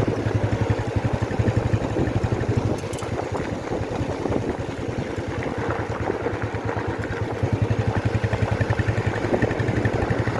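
Motorcycle engine running steadily at a slow riding speed, its rapid firing pulses heard from on the bike, with some road and air noise over it.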